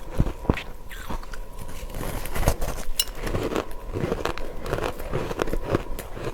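Person biting and chewing matcha-powdered ice, a quick, irregular run of crisp crunches.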